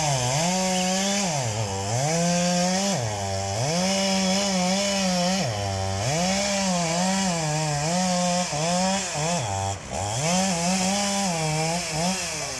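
Stihl MS 881 two-stroke chainsaw running at full throttle in a big stump, its pitch sagging again and again as the chain loads up in the wood and climbing back as it frees. Near the end the revs fall away.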